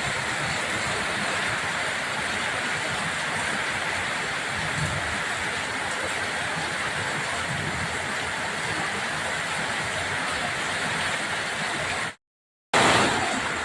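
Steady rushing noise of heavy monsoon water, rain and floodwater, with no distinct beats or tones. It drops out completely for half a second about twelve seconds in, then resumes a little louder.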